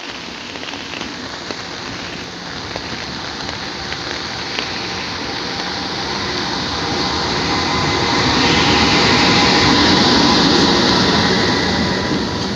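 Freight train hauled by an EH500 'Kintaro' electric locomotive running along the rails. The noise grows louder to a peak about eight to eleven seconds in, then eases off slightly.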